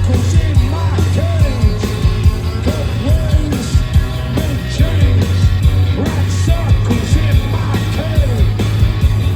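Post-punk rock band playing live and loud: a heavy, steady bass line under regular drum hits, with a voice singing over it.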